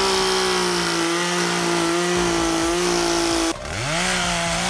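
Two-stroke chainsaw held at full throttle, a steady high engine note that cuts off suddenly about three and a half seconds in, then revs straight back up to the same pitch.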